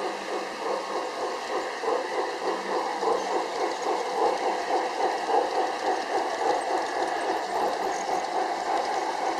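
G-scale garden railway train running, with a regular beat about three times a second, over a steady hiss that fits the layout's waterfalls.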